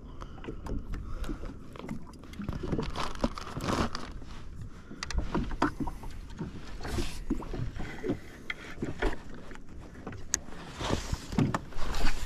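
Water lapping and slapping against the hull of a drifting jetski, with irregular splashes and knocks.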